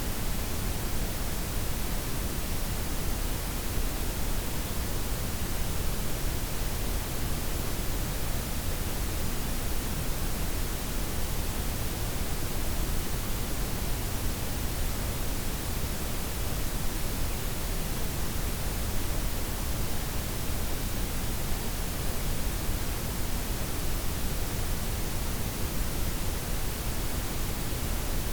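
Steady synthetic noise blend of white, pink and brown noise, an even hiss with strong low rumble and softened highs, unchanging throughout.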